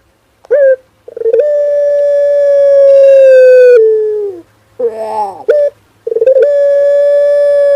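Male puter pelung dove cooing: a short coo, then a long drawn-out coo held for nearly three seconds that drops a little in pitch at its end. A few short notes follow, then a second long coo begins about six seconds in.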